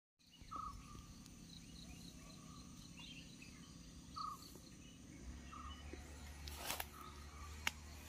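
Faint outdoor ambience with a few short bird calls and a run of evenly repeated high chirps. A low rumble comes in about five seconds in, and near the end there are two short crunches.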